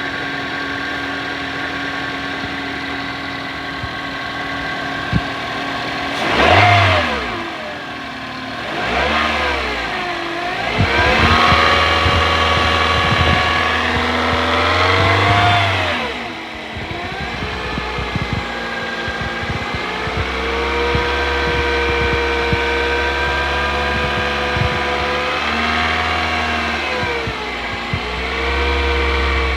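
2006 Toyota Corolla engine revved several times from idle: a quick blip, a second one, a longer hold at higher revs, then a long raised stretch, the pitch rising and falling each time, with a steady whine from the engine bay underneath. The noise is one the owner complains of, which the mechanic thinks could be the alternator or another belt-driven pulley bearing.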